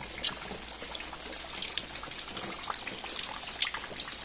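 Rainwater coming down through a roof leak and splashing, a steady hiss of running water full of small sharp splashes and drips.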